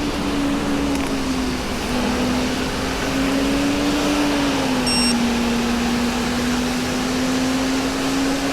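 A vehicle in motion on a commute: a steady hum with one tone that drifts slowly up and down in pitch, over continuous wind and road noise. A short high beep sounds about five seconds in.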